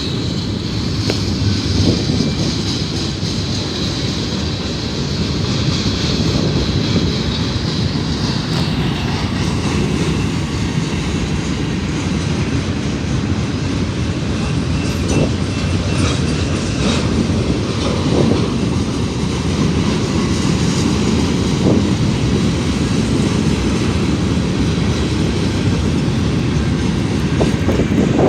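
Freight cars of a Union Pacific manifest train rolling past: a steady rumble of steel wheels on rail with scattered clicks at the rail joints. A thin high squeal runs through the first eight seconds or so.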